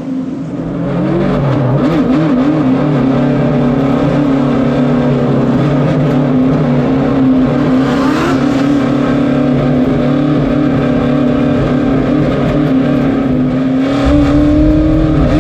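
Late model stock car engines running at speed on an oval track: a loud, steady engine note that wavers a little and climbs slightly near the end.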